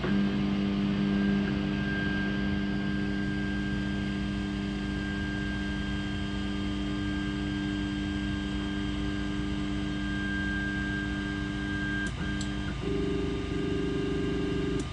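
Ender 3 3D printer's stepper motors humming at a steady pitch while the printer homes its axes. About 12 seconds in the pitch shifts as the motion changes, and it holds the new steady tone until the end.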